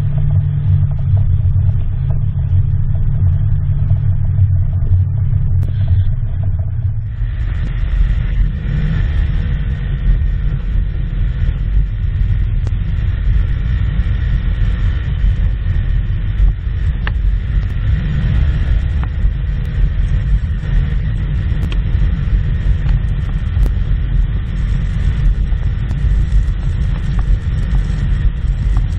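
Engine running steadily with a low hum. About seven seconds in it changes suddenly to a deeper, noisier rumble that carries on.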